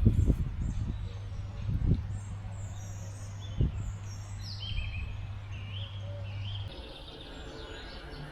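Wild birds chirping and singing in short repeated phrases, over a steady low hum that stops about two-thirds of the way through. There are a few dull low thumps, one at the start, one about two seconds in and one near the middle.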